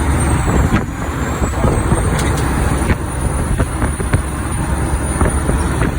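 A big truck's cab while driving: steady engine and road rumble with frequent short rattles, and a thin high whine above it.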